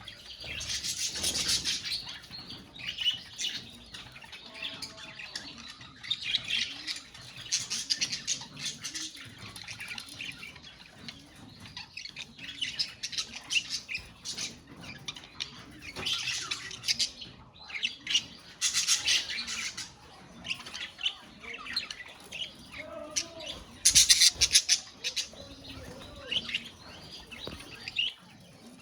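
A colony of budgerigars chirping and chattering together, with louder bursts of calls every few seconds.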